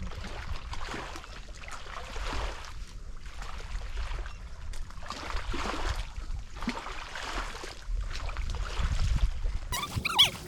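Wind rumbling on the microphone over water lapping in uneven swells. Near the end the sound changes abruptly and a bird calls.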